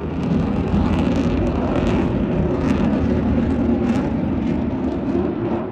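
Eurofighter Typhoon's twin Eurojet EJ200 engines as the jet makes a fast, low pass: a loud, rough jet roar with sharp crackles. It swells within the first moment and eases slightly near the end.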